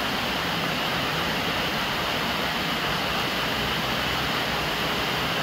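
Steady rain with rainwater pouring from a plastic downpipe and splashing onto the lid of a large water jar, a continuous even rush of water.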